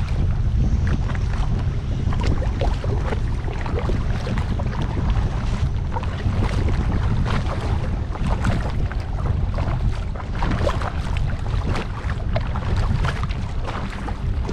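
Wind buffeting the microphone as a steady low rumble, over water lapping and splashing irregularly against a kayak.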